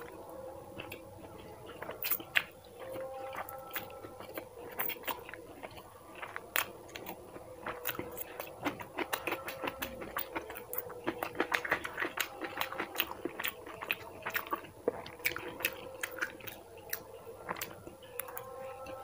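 A person chewing a mouthful of masala Maggi noodles, with many quick wet mouth clicks that come thickest around the middle.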